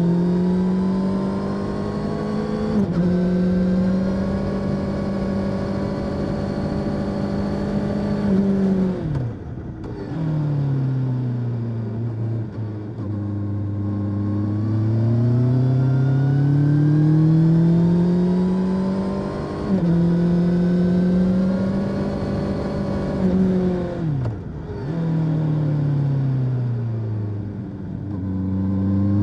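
Honda CB650R's 649 cc inline-four through its stock exhaust, heard onboard while riding. It holds steady revs with brief dips about 3 and 20 seconds in. About nine seconds in and again near the end the revs fall sharply, then climb slowly back up.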